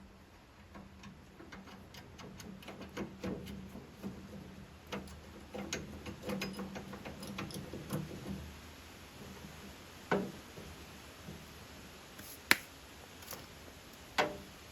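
Handling noise from workshop hand work: a scatter of light clicks and taps, then three sharper single knocks in the second half.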